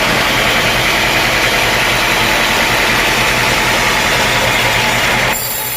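Sawmill engine running steadily; the sound changes abruptly near the end.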